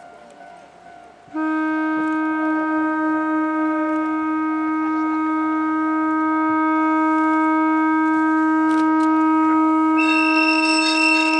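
A train horn sounds about a second in and is held as one long, steady note. A second, higher horn tone joins near the end.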